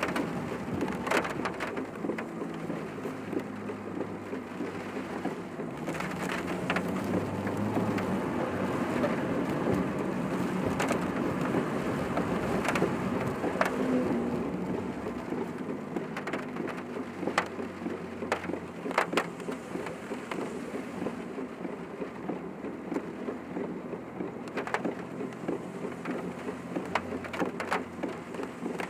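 Rain hitting a moving car, heard from inside the cabin, over steady engine and road hum, with scattered sharp ticks.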